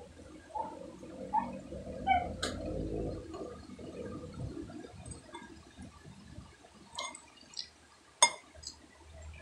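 Close-up wet chewing and mouth sounds of a child eating grilled chicken with his fingers, loudest in the first half, then a few short sharp clicks near the end.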